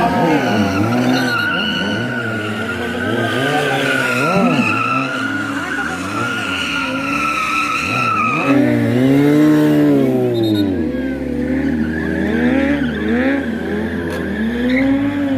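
Stunt sport motorcycles (a Kawasaki Ninja, a Honda CBR 650 and a Suzuki GSX 750) revving up and down again and again, with a steady tyre squeal that drops away about eight seconds in.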